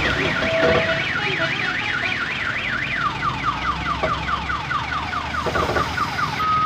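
Electronic siren sounding a fast warble, its pitch sweeping up and down about three times a second; about three seconds in it switches to a quick repeated falling tone.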